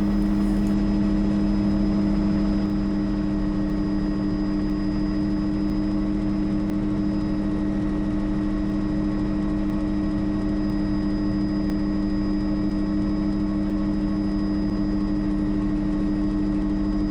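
Bell 206 JetRanger helicopter heard from inside the cabin in flight: a steady engine and rotor drone, a constant low hum with a faint high whine above it.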